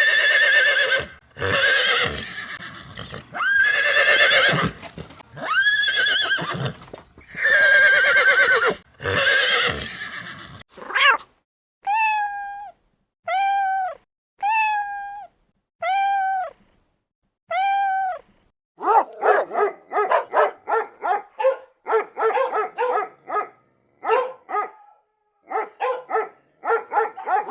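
A series of animal calls. First come about five loud horse whinnies, each about a second long. Then six short, evenly spaced, arching calls, and from about nineteen seconds in a fast run of short, choppy calls.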